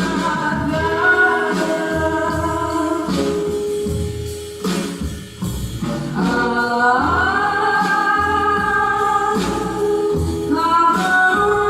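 A girl's solo voice singing a slow song in Japanese with long held notes, backed by a trio of guitar, bass and percussion. The music dips briefly near the middle before the voice comes back in.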